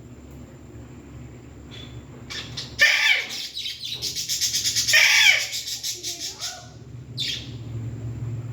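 Pet parrot calling loudly in harsh, high screeches. The calls start about three seconds in, with a fast chattering run of pulses in the middle and one shorter call near the end.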